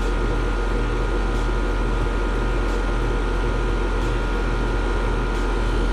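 Amana split-system air conditioner running after a compressor replacement: a steady low hum with a constant high tone over it. It runs smoothly, sounding pretty good.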